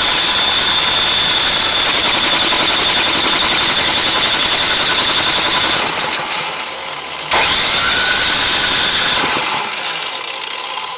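Husqvarna ST224 snowblower engine being cranked in two long bursts, with a steady high whine. The first burst tails off about six seconds in, and the second starts abruptly about a second later and fades near the end.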